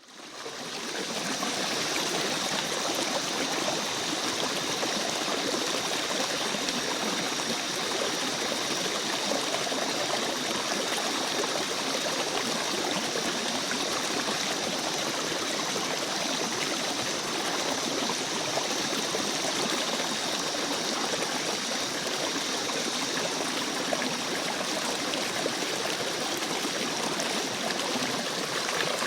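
Rainforest ambience: a steady rush of flowing stream water, fading in over the first second, with a continuous high-pitched drone held on top.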